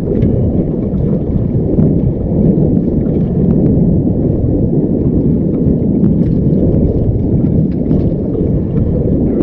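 Strong wind buffeting the microphone: a loud, steady low rumble with a few faint clicks on top.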